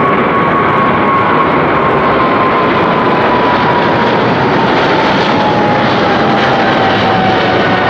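Jet engines of a Qatar Airways cargo jet at takeoff power, a loud, steady rush with a high whine that slowly falls in pitch as the aircraft passes and moves away.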